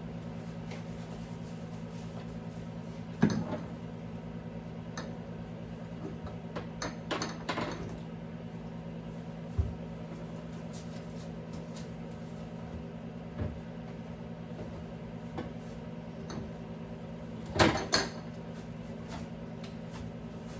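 Scattered knocks and clatters of containers, shelves and dishes being handled while a refrigerator is cleaned out, over a steady low hum. The loudest clatters come near the end.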